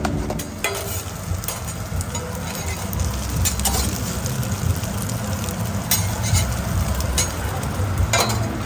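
Food sizzling on a hot cooktop in a food truck's kitchen, with a steady low hum underneath and a few sharp clicks and knocks.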